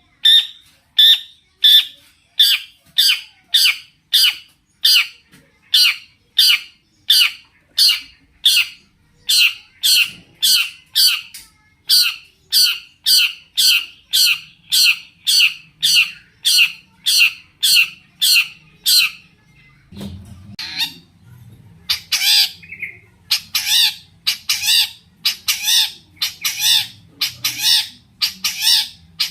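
Long-tailed shrike (cendet) calling in a steady run of short, sharp notes, about two a second. After a brief break about twenty seconds in, it resumes with a denser, more varied run of calls.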